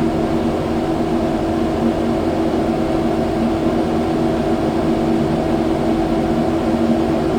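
Kubota skid steer's diesel engine running steadily under load while the machine packs fill into a pothole, heard from the operator's seat.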